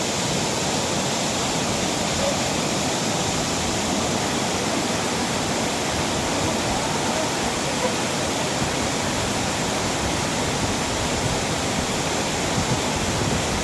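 Rushing water: a steady, loud, unbroken rush like a waterfall or fast stream.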